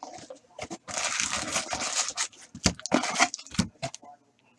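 Plastic wrapping on a box of hockey card packs being torn open and crinkled: a long rip about a second in, then sharp crinkles and crackles.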